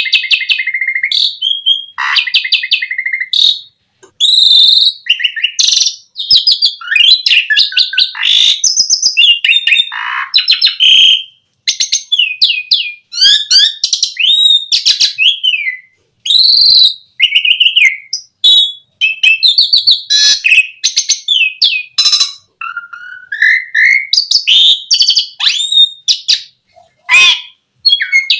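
Asian pied starling (jalak suren) singing a long, varied song of loud whistles, rising and falling glides and rapid chattering rattles, in phrases broken by brief pauses.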